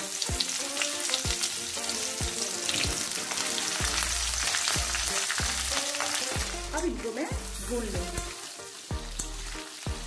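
Pieces of brinjal and raw green banana sizzling in hot oil in a kadhai. A spatula stirs them near the end.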